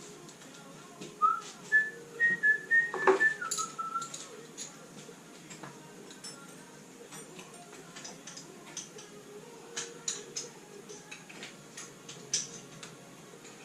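A person whistling a few short notes of a tune for a couple of seconds. After that come scattered light clicks and taps.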